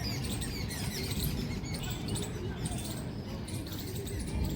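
Many small birds chirping, a dense run of short high squeaky calls, over a steady low rumble.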